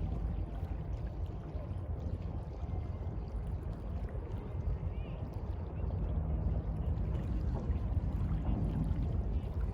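Sea water washing and lapping in a steady, unbroken noise, heaviest in the low end.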